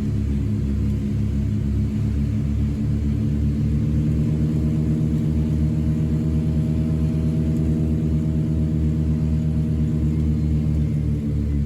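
Britten-Norman Islander's twin engines and propellers droning steadily. The pitch rises slightly about four seconds in and settles back down near the end.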